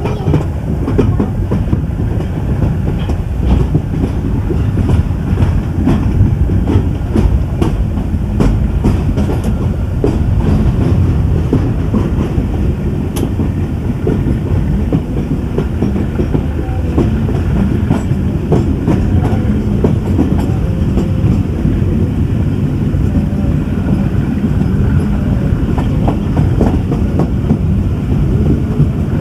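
Moving passenger train: a steady heavy rumble of the coaches running on the track, with irregular clicks and clatter of the wheels over the rails.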